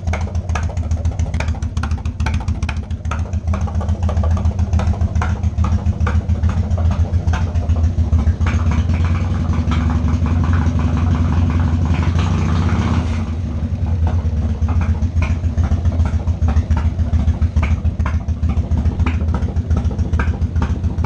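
1995 Harley-Davidson Wide Glide's Evolution V-twin engine idling through Hooker header pipes, running again after nine years of sitting. A little past halfway the engine speed rises briefly, then drops back to idle.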